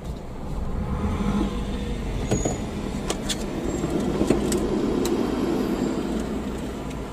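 Vehicle engine running at low speed, heard from inside the cabin, with a steady low rumble that swells a little midway. A few light clicks and rattles are heard.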